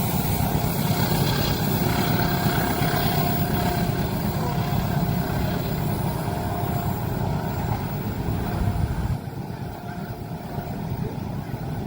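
Train passing a level crossing, a heavy low rumble that drops off sharply about nine seconds in.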